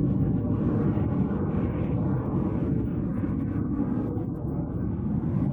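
Low, steady rumble of aircraft in flight, the F-86 Sabre jet and DH-88 Comet passing in formation, slowly fading.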